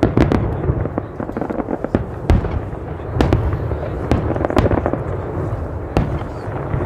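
Fireworks going off: a dense, irregular run of sharp bangs and crackles, with continuous low booming underneath.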